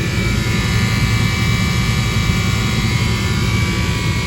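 Commercial rooftop air-conditioning unit running, its condenser fans and one compressor going: a steady low hum with a thin, even whine above it.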